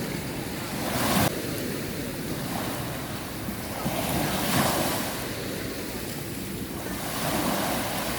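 Sea waves washing ashore, swelling and falling back a few times, with wind rumbling on the microphone.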